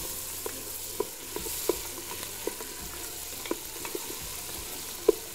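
Onions, dried limes and tomato paste sizzling in hot oil in an aluminium pot while being stirred with a wooden spoon, which knocks against the pot every half second to a second, the loudest knock near the end.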